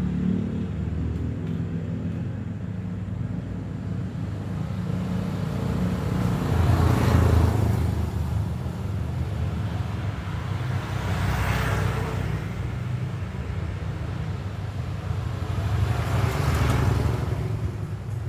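Road traffic: a steady low rumble with three vehicles passing by, swelling and fading one after another, about seven seconds in, about halfway, and near the end.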